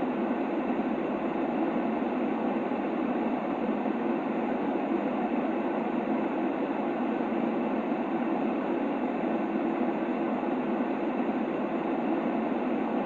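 Steady white-noise sleep sound: an even, unbroken hiss-like rush, strongest in the low-middle range with little deep bass.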